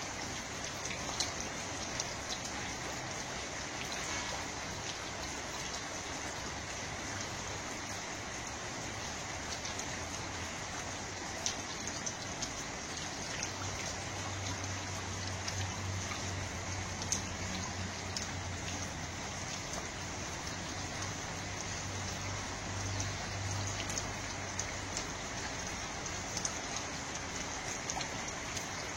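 Steady rain falling, with scattered louder drops ticking. A faint low hum comes in about halfway through and fades out near the end.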